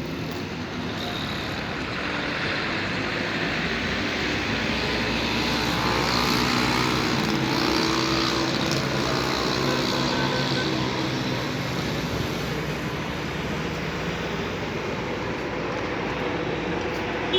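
Steady road traffic noise that swells a little in the middle and eases off again.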